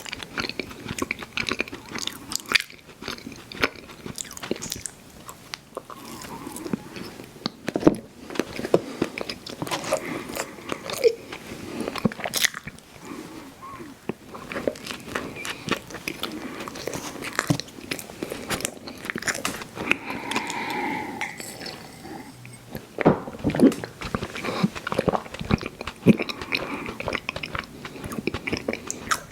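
Close-miked mouth chewing chewy fruit candy: big bites and wet, sticky smacking and clicking that go on without pause.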